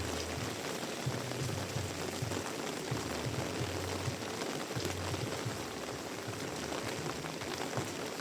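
Heavy rain falling steadily, a dense even hiss with scattered drop ticks, over an uneven low rumble.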